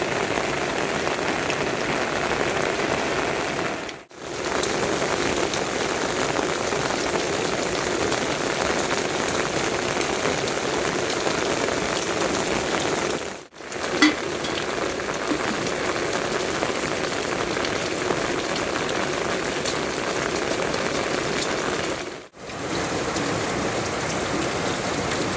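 Steady rainfall, an even hiss of rain on surfaces that drops out briefly three times, with a single sharp tap just after the middle.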